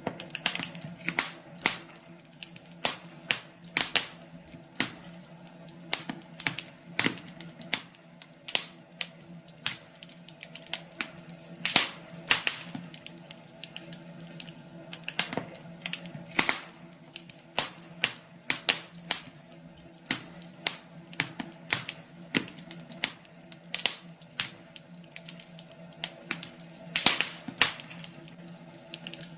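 Wood fire crackling in a fireplace: irregular sharp snaps and pops, several a second, some louder than others, over a steady low hum.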